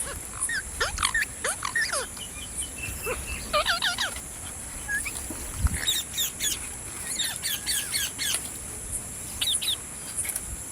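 A parrot chirping: quick runs of short calls that sweep up and down in pitch, with brief pauses between the runs. A single low thump comes a little past the middle.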